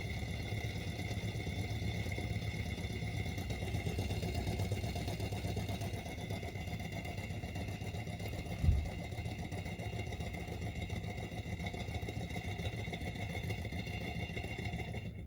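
Small model Stirling engine running steadily, a continuous mechanical clatter with a faint steady high whine, and one sharp knock a little past halfway through.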